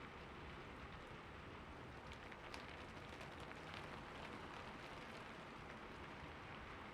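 Heavy rain falling steadily: a dense, even hiss with sharper ticks of single drops scattered through it.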